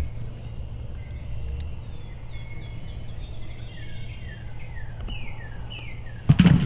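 A wild turkey gobbles loudly near the end, a quick rattling burst. Before it a songbird sings a series of short falling notes, over a steady low outdoor rumble.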